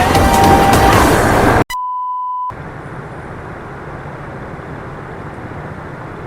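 Music cuts off abruptly, then a single steady high beep sounds for under a second, followed by the steady wind and road noise of a KYMCO Racing S 150 scooter being ridden.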